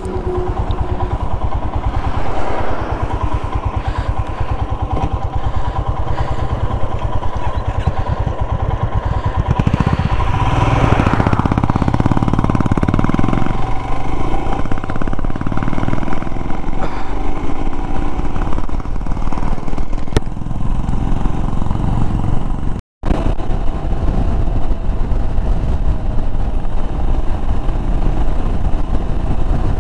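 Royal Enfield Himalayan's 411 cc single-cylinder engine running steadily while riding, with a brief swell about ten seconds in; the sound cuts out for an instant a little past twenty seconds.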